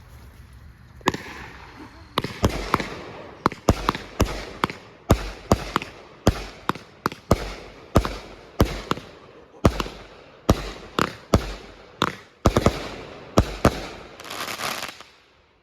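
Fireworks going off in quick succession: a string of sharp bangs about two a second, with crackling and hissing between them, stopping shortly before the end.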